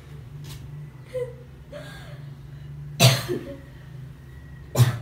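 A person coughing twice, about two seconds apart, over a steady low hum.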